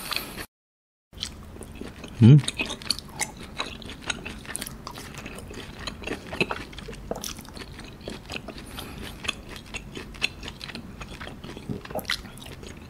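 Close-miked chewing of soft, fatty A5 wagyu beef: a steady run of wet mouth clicks and lip smacks, with a brief low hum from the eater about two seconds in.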